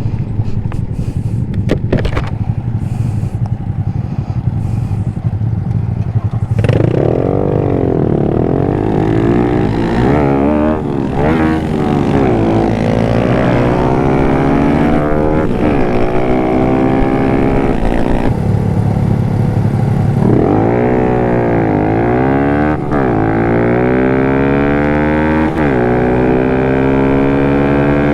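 Honda Monkey's small single-cylinder engine running steadily under wind noise, then about a quarter of the way in accelerating hard: the pitch climbs through each gear and drops at every upshift. About two-thirds in it drops once more and climbs again through the gears.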